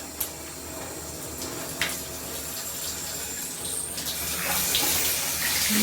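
Water running from a handheld shower head into a bathtub, a steady rush that gets louder about four and a half seconds in, with two brief sharp clicks in the first two seconds.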